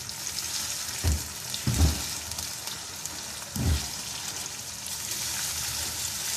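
Marinated chicken mince sizzling in hot oil in a non-stick frying pan as it is stirred with a spatula, a steady hiss with three dull knocks of the spatula against the pan.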